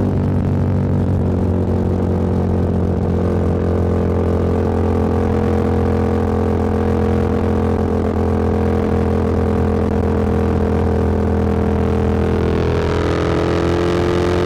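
Motorcycle engine running steadily at cruising speed, heard from the rider's seat with road and wind noise. Its note rises slightly near the end.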